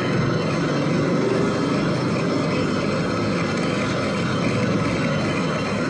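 Metal lathe running steadily with its motor and gearing during a cut, a constant dense mechanical noise.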